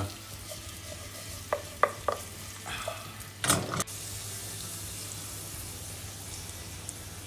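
Guanciale strips sizzling steadily in a nonstick pan as their fat renders over low heat. A wooden spatula knocks against the pan three times in quick succession, then scrapes once more loudly about three and a half seconds in.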